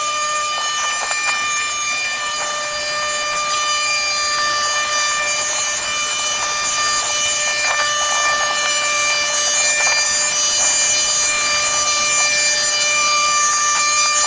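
A small motor running steadily at high speed, giving a constant high whine over a hiss, with a few faint scrapes.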